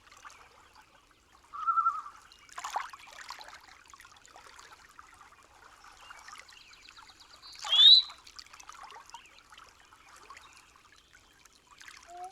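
Faint trickling water, with a brief high call about two seconds in and a sharp, loud rising chirp about eight seconds in.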